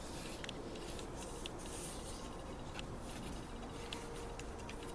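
Fingers rubbing and scraping lightly inside the ports of a Dodge 4.7 cylinder head, with small scattered ticks and brief scratchy strokes: a hand check for water seeping past the freshly lapped valves, which finds the ports dry.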